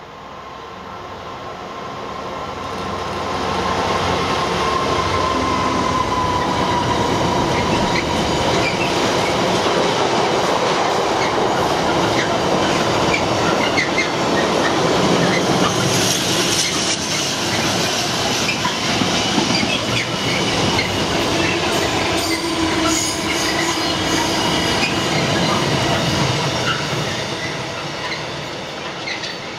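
Class 66 diesel freight locomotive, with its EMD two-stroke V12, passing at speed at the head of a long container train. The noise builds over the first few seconds as the locomotive arrives, then a long steady run of wagons rumbles and clatters over the rails, easing off near the end.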